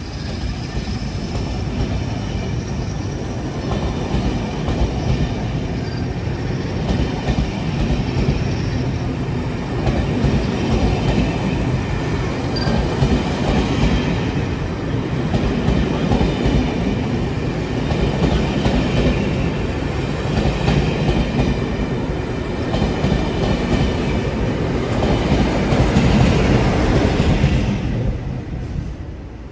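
Rake of loco-hauled passenger coaches rolling past on departure: steady rumble of wheels on the rails with clattering over the joints and a faint high wheel squeal. The sound drops away near the end as the last coach clears.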